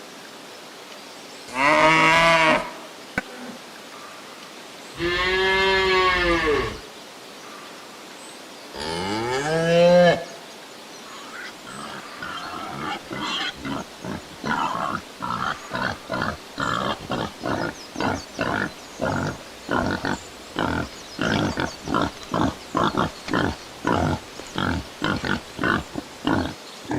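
A cow moos three times, each call a second or two long and falling off at the end. From about halfway through, a pig grunts over and over in short, even grunts, roughly two a second.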